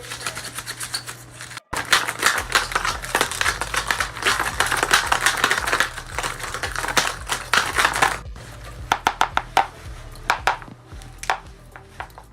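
Paper being handled and cut for a craft: dense crinkling and rustling with snips, thinning after about eight seconds to scattered separate clicks and snips.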